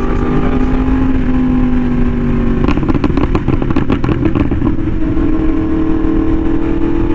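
Yamaha R1M's crossplane inline-four running through an SC Project exhaust at a steady cruise. About three seconds in there is a couple of seconds of rapid crackling, and after it the engine settles at a slightly higher note.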